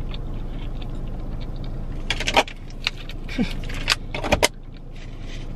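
Close-up chewing of a mouthful of salad. Several sharp clicks and short metallic jingles come about halfway through, over a steady low hum from the car.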